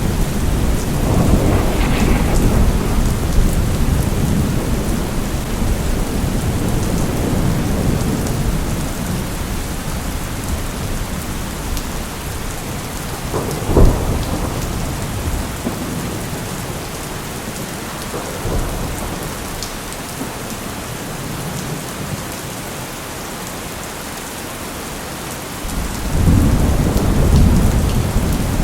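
Steady rain with rolling thunder: a long low rumble at the start that fades out over about twelve seconds, a sharp thunderclap about halfway through, and another rumble swelling near the end.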